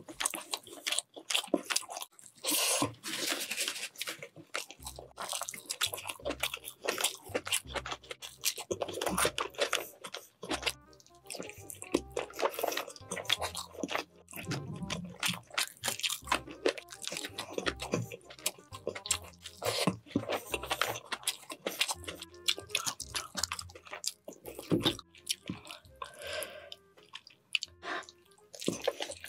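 Close-miked eating of braised chicken adobo: wet chewing and smacking with frequent sharp, crunchy bites as meat is torn off the drumsticks.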